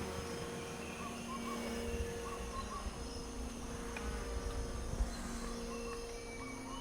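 Rainforest insect chorus: a steady drone that rises and falls, with short chirping calls repeated in little groups.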